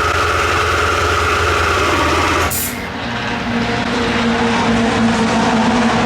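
Starter motor whirring as it cranks the Lotus T125's engine, which does not fire; the cranking stops abruptly with a click about two and a half seconds in. Another engine's steady hum follows in the background.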